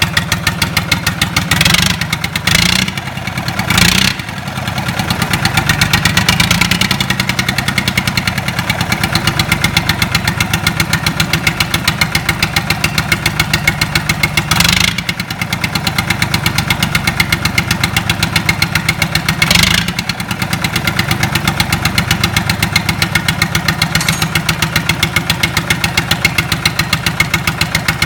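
Freshly rebuilt Lister Petter SR3 three-cylinder air-cooled diesel engine running steadily with an even, rapid firing beat, its level rising briefly a few seconds in.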